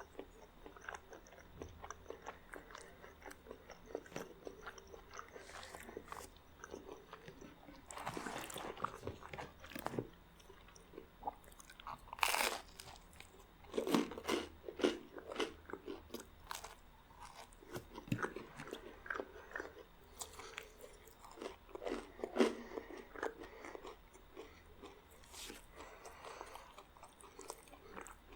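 Close-miked eating: a person biting into and chewing crunchy garlic bread, in irregular crackly crunches. The loudest bite comes about twelve seconds in, with busier bursts of chewing a couple of seconds later and again around twenty-two seconds.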